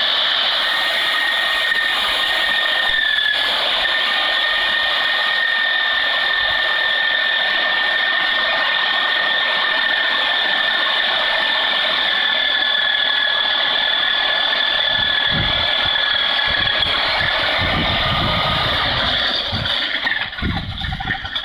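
An electric power tool running steadily with a high, even whine, breaking up and faltering near the end.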